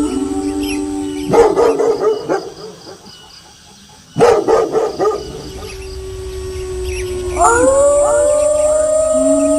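Wolves howling in long held notes, broken by two short bursts of barking and yipping about a second and about four seconds in. Near the end several howls start together at different pitches, a howling chorus.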